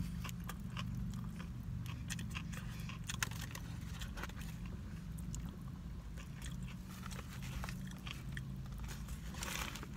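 A man chewing a mouthful of sub sandwich close to the microphone: many small wet clicks and crunches scattered throughout, over a steady low hum.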